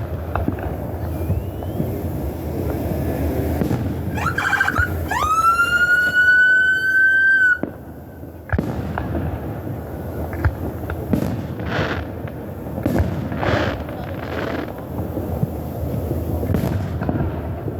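Fireworks display: continuous booming and crackling from the shells. About five seconds in a shrill whistle rises, holds steady for about two seconds and cuts off suddenly, followed by a sharp bang.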